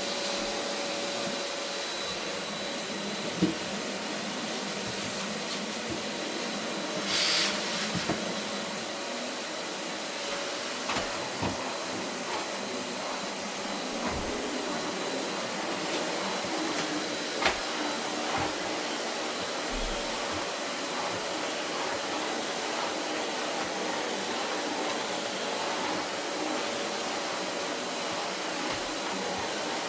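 Vacuum cleaner running steadily over carpet, with a few short knocks along the way and a brief hiss about seven seconds in.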